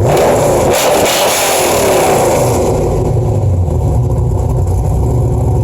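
A car engine running and being revved, its pitch rising and falling in the first couple of seconds before it runs more steadily.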